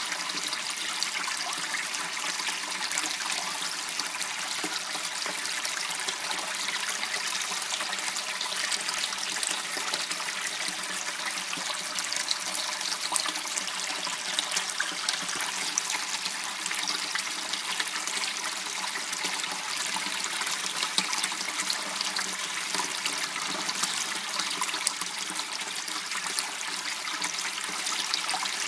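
Water in a small waterway running and trickling steadily, an unbroken rushing noise with fine splashy crackle.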